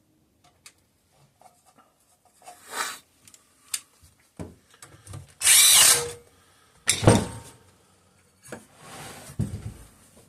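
Power drill running bolts in, in several short bursts, the longest and loudest a little past halfway through.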